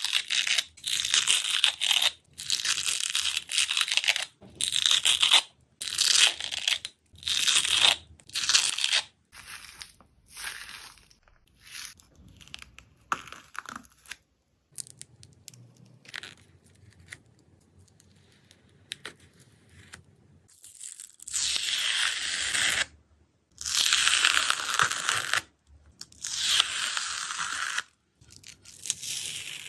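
Dried skin on slime being torn, in hissing, crackly tears: a quick run of short tears, a quieter stretch with faint handling, then three longer tears near the end.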